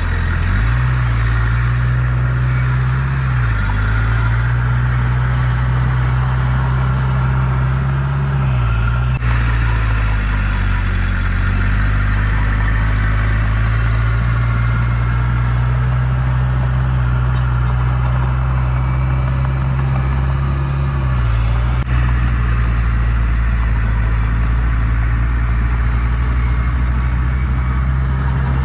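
Diesel engine of heavy earthmoving equipment running steadily, its pitch dipping and rising again several times as the load or throttle changes, with two brief clicks along the way.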